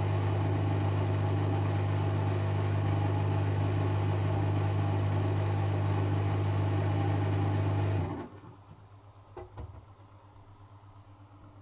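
Servis Automatic M3008B washing machine running at the end of its final spin, with a steady low hum and mechanical noise; the running cuts off suddenly about eight seconds in, followed by a few faint clicks as the programme ends.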